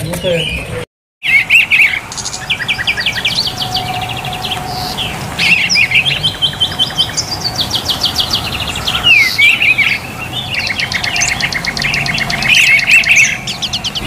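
Songbirds chirping and singing in fast, high trills, several voices overlapping, after a brief dropout of sound about a second in.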